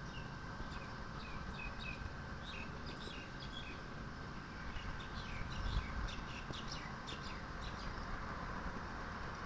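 Small birds chirping in quick runs of short, high calls, in two spells, over a steady low rumble of jet engines from an airliner that has passed overhead.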